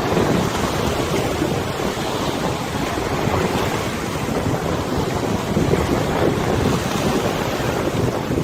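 River water washing and lapping under steady wind buffeting the microphone, an even rushing noise weighted toward the low end.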